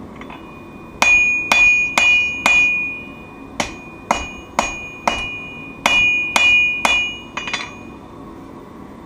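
Forging hammer striking steel on an anvil: about thirteen blows at roughly two a second, in runs of four, four and three, then a quick double. Each blow leaves the anvil ringing with a clear, high tone.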